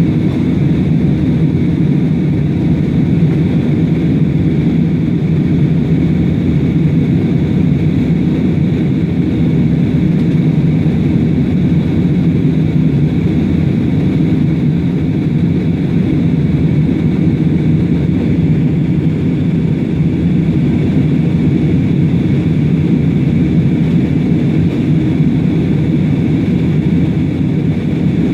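Airplane engines running at a constant level: a steady, loud low rumble with a faint higher hum above it, with no rise or fall in pitch or loudness.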